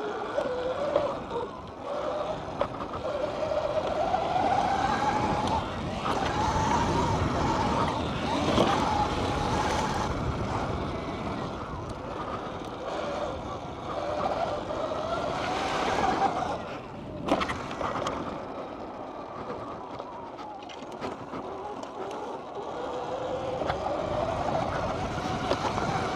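Dirt bike ridden hard around a track, its motor pitch rising and falling with the throttle over a steady rush of wind and tyre noise, with a couple of sharp knocks about two-thirds of the way through.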